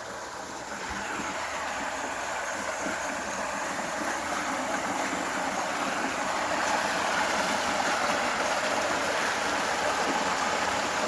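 Flooded creek water rushing in a steady wash that grows slowly louder.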